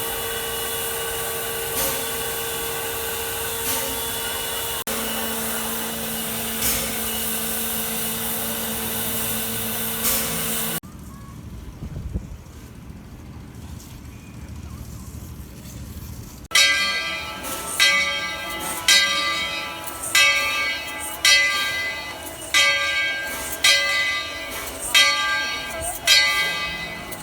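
Steam locomotive bell ringing in a steady rhythm, about one strike a second, from a little past the middle onward. Before it comes a long steady sound of several held tones that stops abruptly about 11 seconds in, followed by a quieter stretch.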